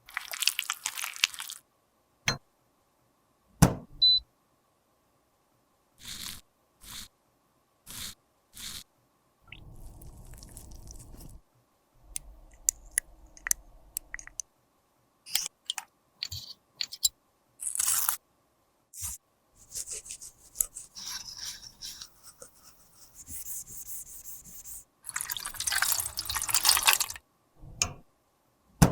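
Close-up handling of makeup products and their cases: a string of small clicks and taps with stretches of scraping and crackling, as powder or balm is scraped, pressed and mixed. The longest, loudest scraping comes near the end.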